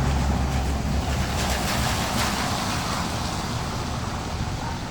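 Street traffic: a vehicle going past, a low engine rumble with tyre hiss that swells about two seconds in and then slowly fades.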